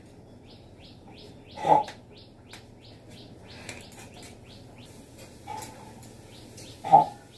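Small birds chirping in a quick run of short, high, down-slurred notes, several a second. Two louder brief sounds stand out, about two seconds in and near the end.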